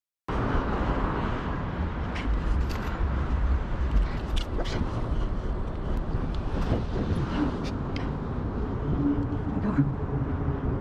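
Wind buffeting a chest-mounted action camera's microphone while riding a bicycle, over a steady low road and traffic rumble, with a few sharp clicks or rattles. It starts abruptly after a moment of dead silence.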